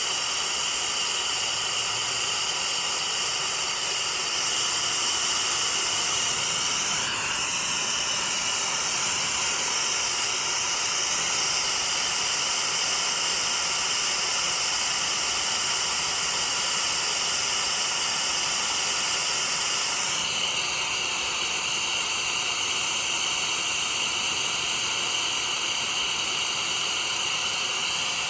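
Oxy-acetylene torch flame hissing steadily while brazing a copper air-conditioner pipe. The tone of the hiss shifts a few times, most clearly about 7 and 20 seconds in.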